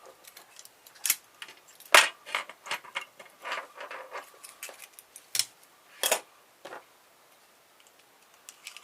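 Hand disassembly of a car stereo: small metal parts and hand tools clicking and clinking irregularly against the metal chassis. The loudest clack comes about two seconds in, and the last two seconds are quieter.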